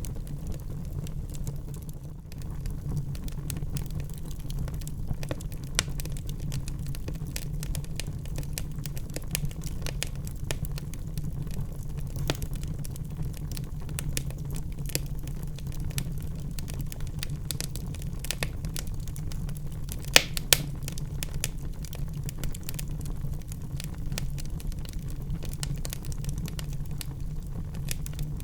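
Wood burning in a fireplace, crackling and popping irregularly over a steady low rumble. Two sharper pops stand out about twenty seconds in.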